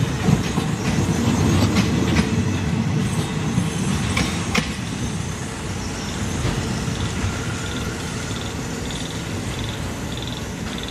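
Passenger train's carriage wheels rumbling and clicking over the rail joints as the last coaches pass, the clatter thinning out and fading away about five seconds in. After that, a small animal's high call repeats about every two-thirds of a second.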